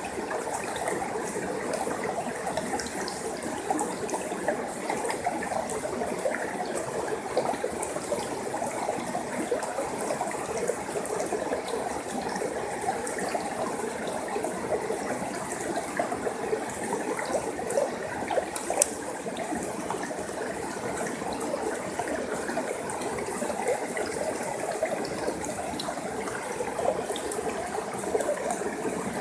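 Forest stream flowing steadily over stones, a constant rushing and trickling with small splashes.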